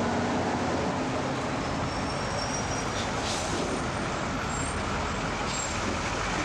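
Steady road traffic noise from motor vehicles going by on a busy street.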